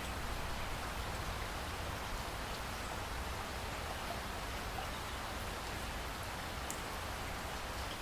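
Steady rainfall, an even hiss of rain with faint drops ticking on a surface over a low rumble.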